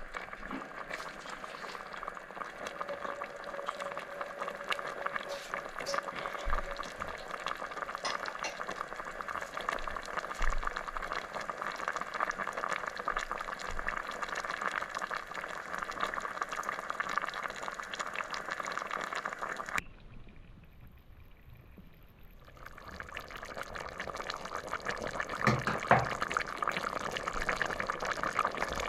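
Pilaf cooking in a pot, bubbling steadily with many small crackles. It cuts off suddenly about two-thirds of the way through, stays quieter for a couple of seconds, then the bubbling builds back.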